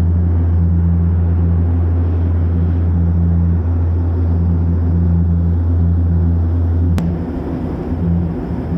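Steady low drone of an aeroplane's engines heard from inside the passenger cabin. About seven seconds in there is a sharp click, and after it the drone goes uneven.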